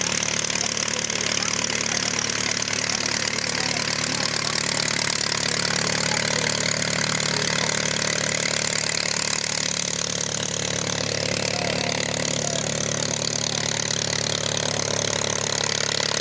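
Piston engine running steadily at an even pitch, under a strong, steady hiss.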